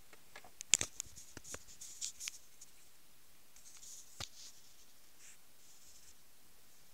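Irregular small clicks and short scratchy rustles close by, bunched in the first couple of seconds, with one sharper click a little after four seconds; no thunder is heard.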